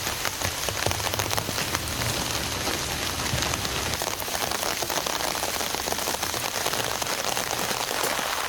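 Heavy rain falling steadily, a dense patter of many separate drop hits.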